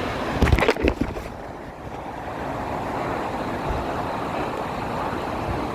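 Steady rush of water running down a water slide, with a few short knocks in the first second or so.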